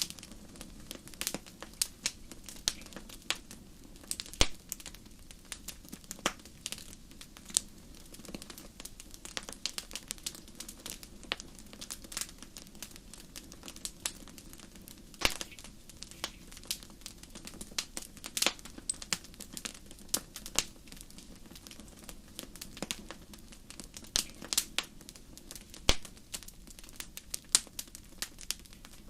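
Wood fire crackling in a fireplace: sharp irregular pops and snaps over a low steady hiss of burning.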